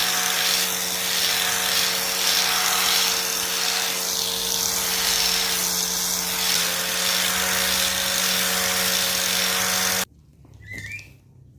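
A homemade grass cutter's small motor runs at a steady high speed with a high-pitched whir, then stops abruptly about ten seconds in. A few faint short chirps follow near the end.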